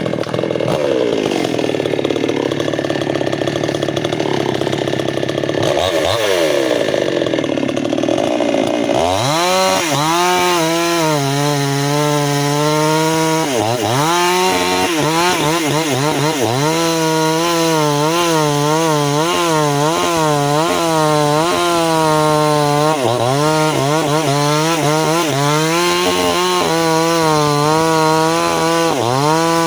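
Chainsaw running at high revs and cutting into a tree trunk, starting right at the beginning. From about nine seconds in, its engine note repeatedly dips and recovers as the chain bites into the wood under load.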